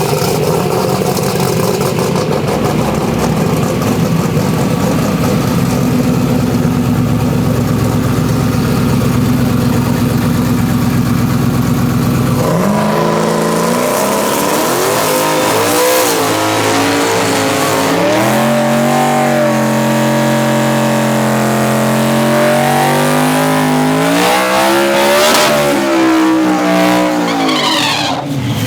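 Twin-turbo 5.0 Coyote V8 of an F-150 drag truck running hard. For about twelve seconds it holds a steady heavy drone, then the engine pitch rises and falls several times as the revs change.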